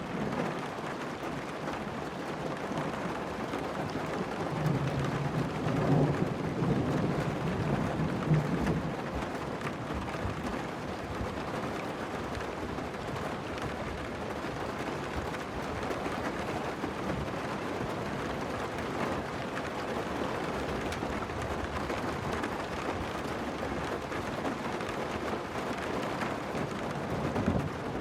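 Steady rain falling on a car during a thunderstorm, with a louder low rumble from about five to nine seconds in.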